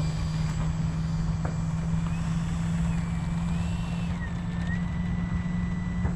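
Electric ducted fan of a 70mm EDF RC jet running at low throttle on the ground, a thin steady whine that steps up and down in pitch a few times as the throttle is moved, over a low steady hum.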